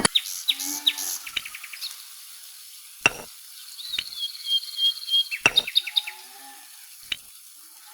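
Small birds chirping, with short up-and-down chirps and a rapid trill near the middle, over a steady hiss. A few sharp taps cut in, the loudest about three seconds in and again about two and a half seconds later.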